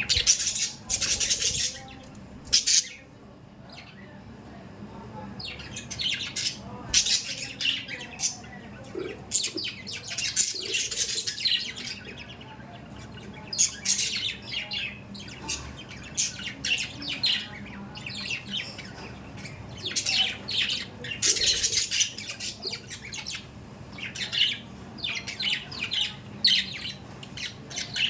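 Budgerigars chirping and squawking in quick runs of short, high calls, with a quieter lull about three to five seconds in.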